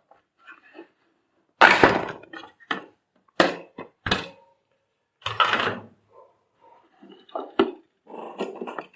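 Knocks and clatter of hard plastic vacuum cleaner parts being handled and set down during disassembly: about half a dozen separate thuds and rattles, the loudest about two seconds in.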